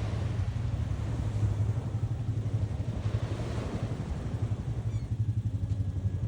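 Ocean surf washing steadily on a beach, under a heavy low rumble of wind on the microphone.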